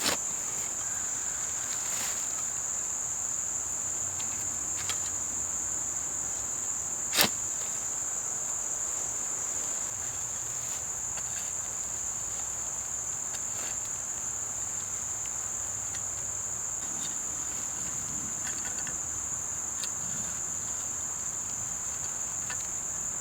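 Steady high-pitched chorus of insects, continuous and unchanging. A few sharp knocks stand out from it, the loudest about seven seconds in.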